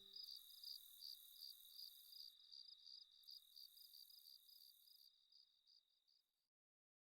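Faint crickets chirping: a steady high trill with a pulsed chirp about three times a second, fading out to silence about six seconds in.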